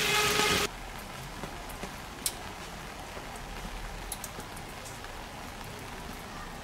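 Stir-fried duck sizzling and scraping in a hot iron wok as it is scooped out, cut off abruptly under a second in. Then a faint steady hiss with a few scattered small ticks.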